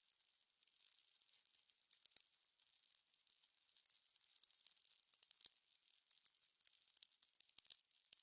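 Fire crackling: irregular sharp pops and snaps over a steady high hiss.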